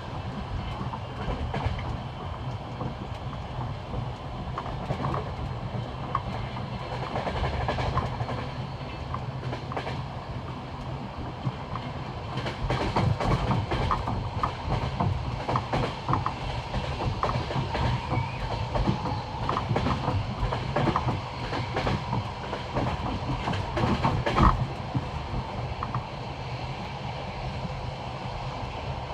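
Passenger carriage wheels clacking over rail joints, over a steady running rumble. This is the classic clickety-clack of jointed, unwelded track. The clatter grows louder about halfway through, with one sharp knock near the end.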